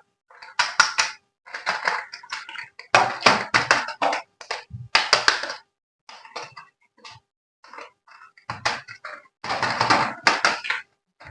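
Packaging being handled during an unboxing: irregular bursts of rustling and crinkling, with sharp clicks and light knocks, separated by short silent gaps.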